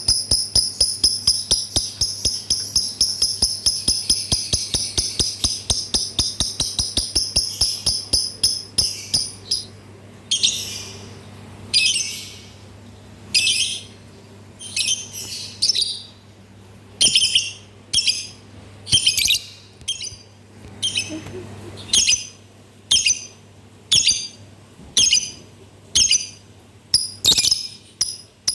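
Lovebird chirping: a fast run of sharp, high chirps, about five a second, for roughly the first nine seconds. Then it switches to short bursts of chirps about once a second.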